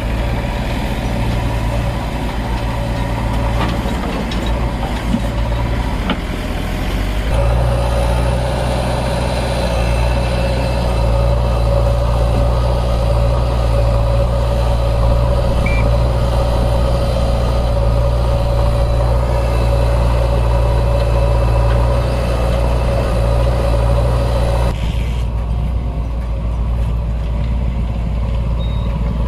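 Heavy diesel engine running steadily. It gets louder about seven seconds in, with a steady whine added, and drops back a few seconds before the end.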